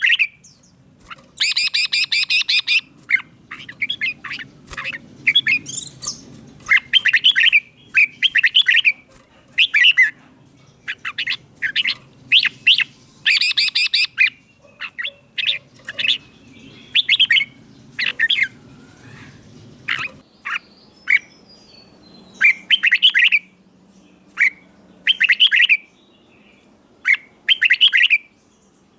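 Red-whiskered bulbul singing: short, loud whistled phrases repeated every second or two, with a few harsher, buzzier bursts among them.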